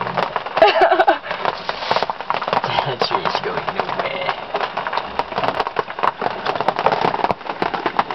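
Dry tree branches and twigs crackling and snapping continuously in many small irregular cracks as a fallen tree is dragged out of the way.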